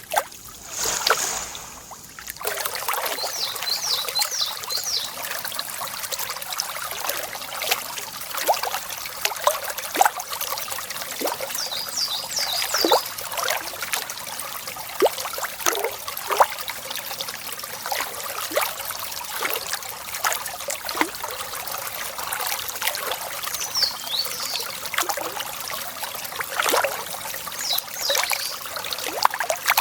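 Water trickling and splashing in a steady stream of small drips and splashes, louder for the first couple of seconds. Small birds chirp in a few short bursts now and then.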